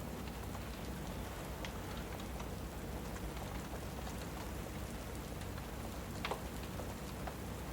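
Steady rain ambience with a few sharp pops scattered through it, like the crackle of a wood fire.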